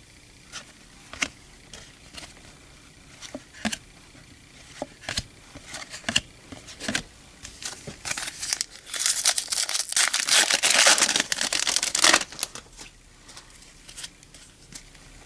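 A trading-card pack's foil wrapper being torn open and crinkled for about four seconds, after a run of light clicks and flicks from cards being handled.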